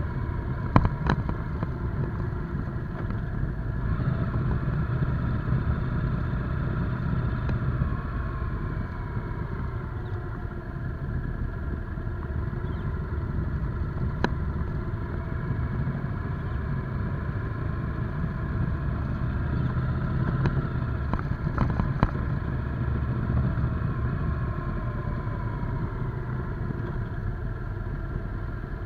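Motorcycle engine running under way, its pitch falling and rising as the bike slows and speeds up. A few sharp clicks come through, near the start and again around the middle and later.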